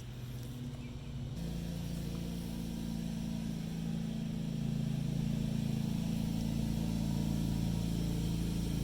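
An engine running steadily with a low hum. Its pitch pattern shifts abruptly about a second and a half in, then holds steady.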